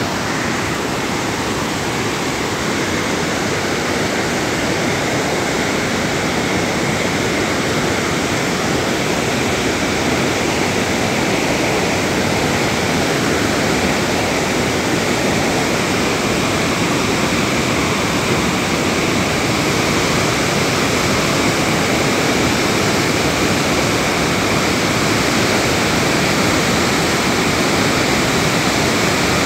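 Loud, steady rushing noise that does not let up, like water or wind.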